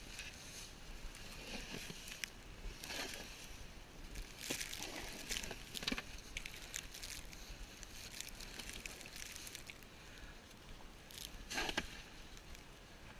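Footsteps crunching in snow at an irregular pace, one step every second or so, with the loudest crunch near the end.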